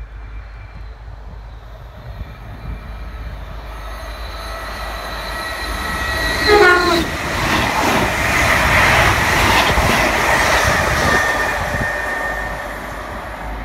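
An electric multiple unit sounds a short horn as it approaches, then passes through the station at speed without stopping. The rushing wheel and rail noise builds to a peak just after the horn and fades away as the train leaves.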